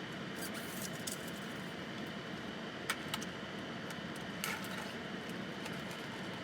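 Steady low hiss of room tone, with a few faint clicks about three seconds in and again near four and a half seconds.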